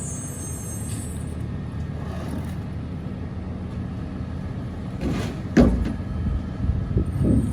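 Mack MRU garbage truck's diesel engine running steadily at a low idle, with a sudden loud bang about five and a half seconds in and a few clunks near the end, as on the rear-load hopper of a McNeilus body.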